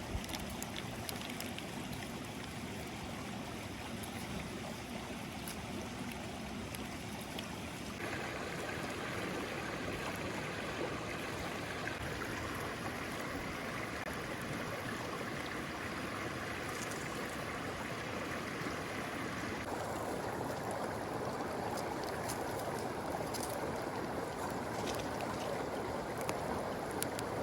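Steady outdoor rushing noise with scattered faint clicks; its tone changes abruptly twice, about a third of the way in and again about two thirds in.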